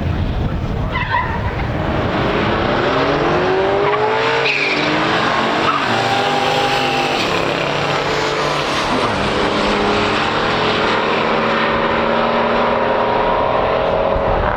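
Drag-racing cars accelerating hard at full throttle. The engine pitch climbs, drops back at a gear change about four and a half seconds in, then climbs again.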